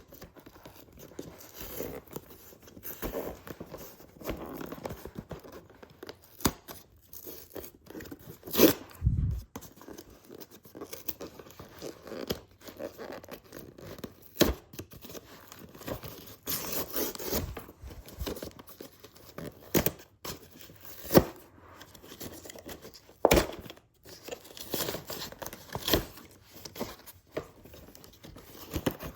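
A cardboard toy box being opened by hand: packaging tearing and crinkling, with irregular handling clicks and a few sharp knocks.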